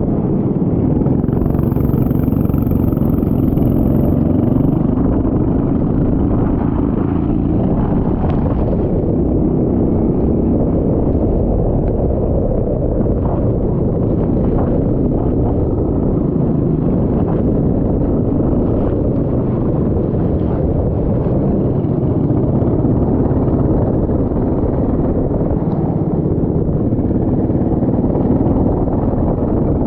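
Go-kart engine running steadily and loud under racing load, its pitch shifting a little with the throttle.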